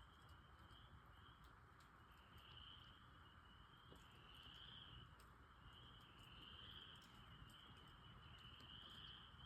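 Faint chorus of frogs singing in the woods: a steady high trill that swells about every two seconds, with scattered soft ticks of dripping water.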